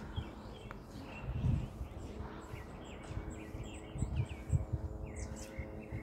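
Small birds chirping over and over in short, quick notes, with a few low, muffled thumps, loudest about a second and a half in and again about four seconds in.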